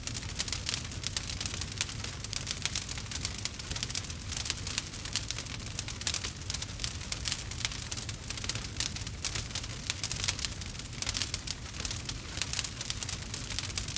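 Campfire crackling steadily, with dense, rapid snaps and pops over a low, steady rumble.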